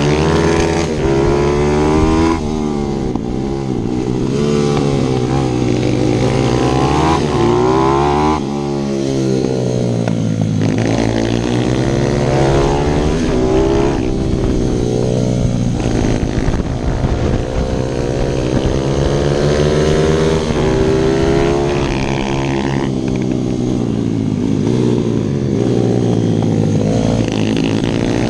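155 cc pit bike's single-cylinder four-stroke engine, heard from on the bike, revving up through the gears and dropping off again over and over as it laps a kart track.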